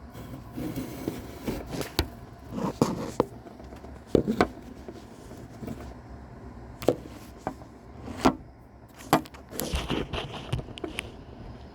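A mouse tearing at and chewing a cicada: irregular sharp clicks and short scratchy rustles, several of them loud, spread unevenly throughout.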